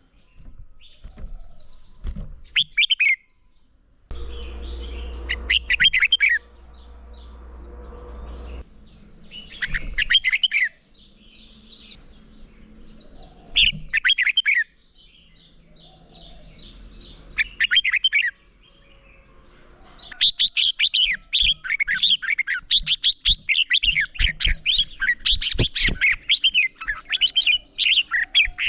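Red-whiskered bulbul singing: short, bright chirping phrases every few seconds, then from about two-thirds of the way through a fast run of phrases one after another. A low rumble runs underneath for a few seconds near the start.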